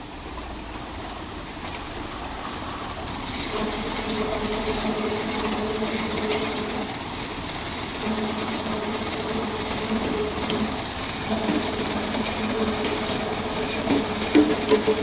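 Double-sided bottle labelling machine running, with a steady mechanical hum and a rattle of repeated clicks. A steadier tone joins about three to four seconds in.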